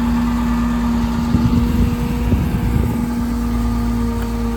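Caterpillar C7 diesel engine of a Ford F750 service truck running at a steady speed, a constant pitched whine riding over the engine rumble. There is some irregular clatter about a second and a half in.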